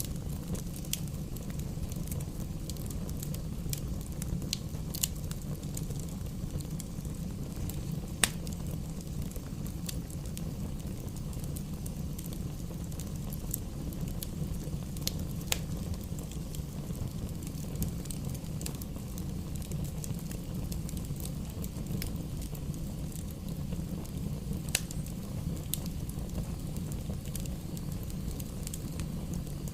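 Wood fire burning in a fireplace: a steady low rumble of flames with irregular sharp crackles and pops, a few a second, one louder pop about eight seconds in and another near twenty-five seconds.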